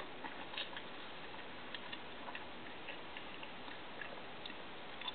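Faint mouth sounds of someone chewing a bite of hamburger: small, irregular clicks over a steady hiss.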